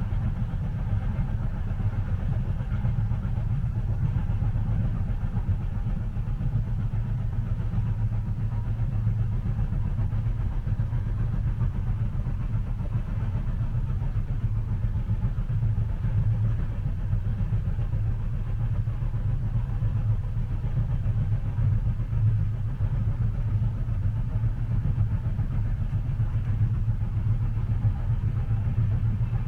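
Steady low rumble of a train running, heard from inside a passenger cabin, with no clear clicks or rhythm.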